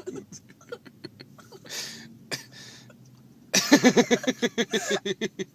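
A person bursting into laughter about halfway in, a quick run of 'ha' pulses lasting about two seconds, after a few soft mouth clicks and a breath.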